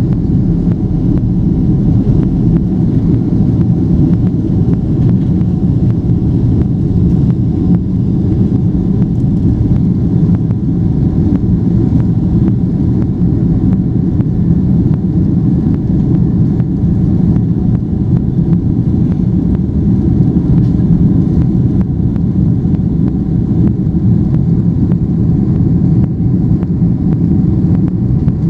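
Boeing 767 airliner during takeoff, heard as a loud, steady low rumble of jet engines and airflow with no change in pitch or level.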